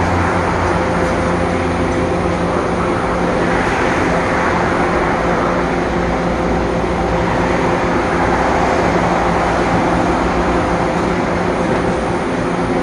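BART rapid-transit train running at a station platform: a steady, loud rumble of wheels and motors with a few constant tones running through it.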